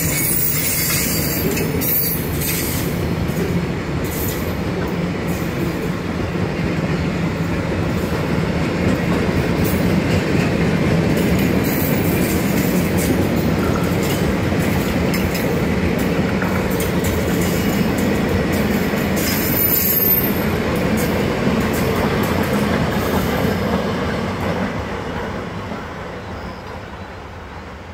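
Freight train of tank wagons rolling past on the rails: a steady rumble of wheels on track. The sound fades over the last few seconds as the end of the train draws away into the tunnel.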